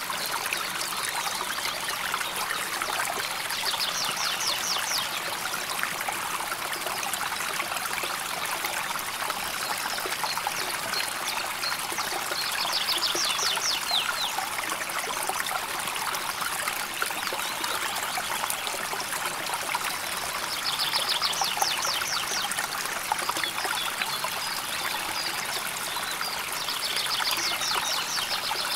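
A river flowing steadily over stones, a constant trickling, babbling rush. A short, rapid, high trill comes over it four times, about every eight seconds.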